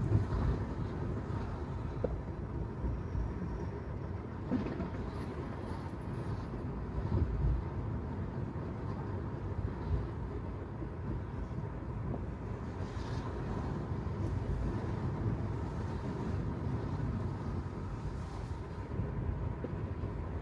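Steady low road and tyre rumble of a Tesla Model 3, an electric car, driving on wet pavement, with no engine sound and a little wind noise on the microphone.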